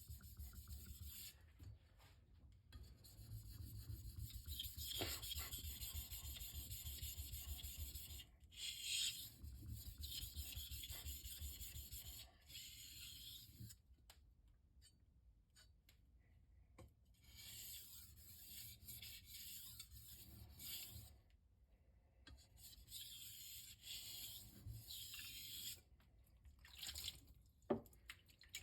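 Knife blade stroked back and forth on a wet Shapton Rockstar 1000-grit whetstone, a gritty scraping that comes in runs of strokes with short pauses between. A light knock near the end.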